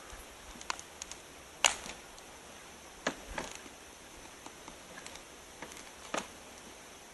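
A few scattered, irregular clicks and light knocks, as of small hard objects being handled and set down. The sharpest comes about one and a half seconds in.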